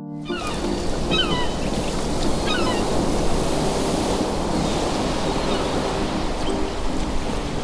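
Ocean surf washing steadily, with a few short falling chirps of birds calling over it.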